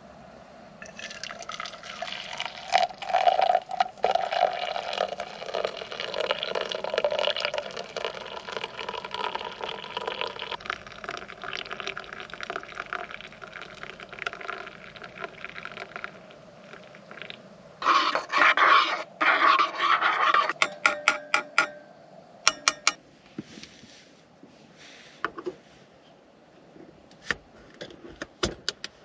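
Hot liquid being poured into a mug for coffee. There is a steady pour for about fifteen seconds, then a short louder pour, followed by a quick run of clicks.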